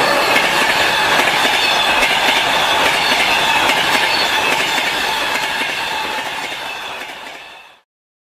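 Passenger train cars rolling past on the rails, wheels clattering over the rail joints with some squeal. The sound fades away near the end and cuts to silence.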